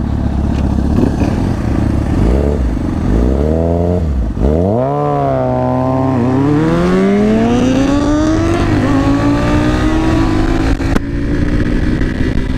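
Motorcycle engine revving up and accelerating. The pitch climbs, dips and jumps up sharply about four to five seconds in, drops at a shift about six seconds in, then rises slowly and steadily under load.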